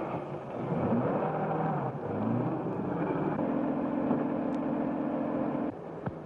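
Car engine revving as the car pulls away, then running steadily before cutting off suddenly near the end.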